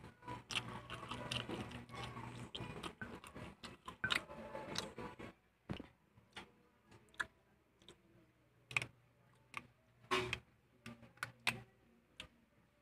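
Close-miked chewing and lip-smacking of fried chicken meat: a dense run of wet clicks and smacks for the first five seconds or so, then slower, scattered clicks and smacks.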